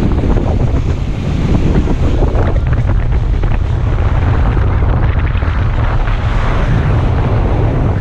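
Wind buffeting the microphone aboard a moving boat at sea, a heavy steady rumble over a rushing wash of water.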